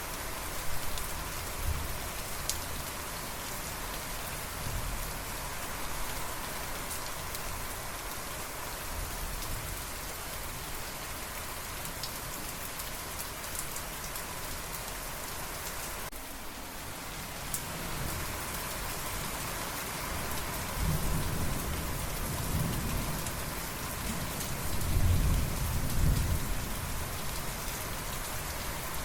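Steady heavy rain hissing on surfaces, with rolling thunder rumbling in from about two-thirds of the way through and peaking near the end.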